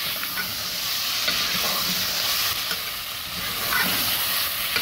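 Beef pieces, onions and chopped tomatoes sizzling steadily in hot oil in a metal pot while being fried, with a steel spoon stirring through them and scraping the pot now and then.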